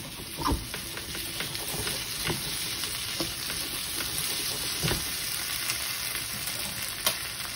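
Fried potato cubes sizzling in brava sauce in a hot pan, stirred with a utensil that knocks and scrapes against the pan several times.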